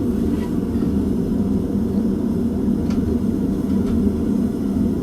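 Blacksmith's forge running with a steady low rushing noise as tool steel heats in it, with a few faint ticks.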